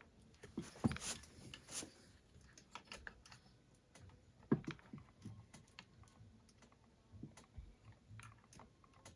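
Irregular light clicks and taps of hands working small parts on a chainsaw, pressing the ignition wire into place, with two louder knocks, about a second in and about four and a half seconds in.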